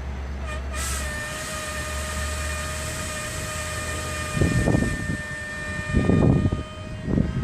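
Metra commuter train at the platform getting under way, with a steady high tone sounding over it for about six seconds. Deep rumbling swells come a few seconds in, the loudest near the end.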